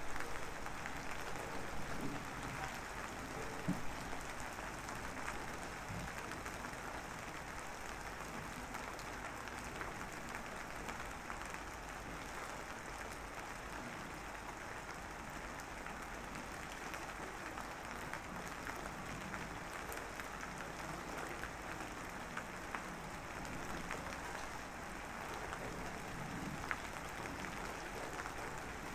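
Steady rain falling, an even hiss of drops with a few small ticks here and there.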